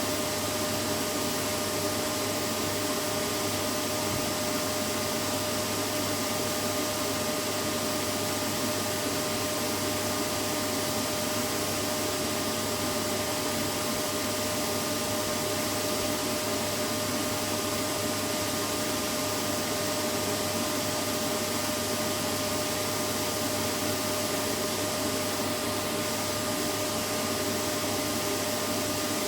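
Vacuum cleaner running steadily, a constant whooshing noise with a steady hum in it and no change in pitch or level.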